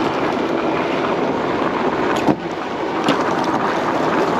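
Steady wind rushing over the microphone on an electric bike being ridden, with two sharp knocks a little past two seconds in and about three seconds in.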